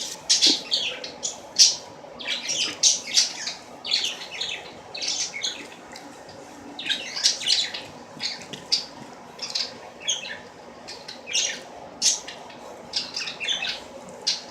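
Birds chirping and squawking in quick, short calls over a faint steady hum.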